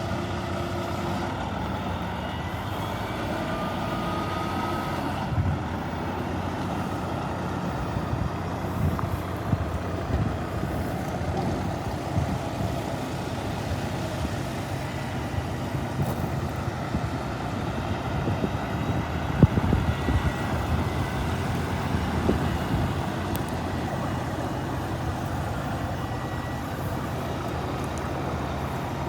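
The D13 diesel engine of a 2020 Volvo VNL 860 truck tractor idling steadily, with a few short knocks, the loudest about 19 seconds in.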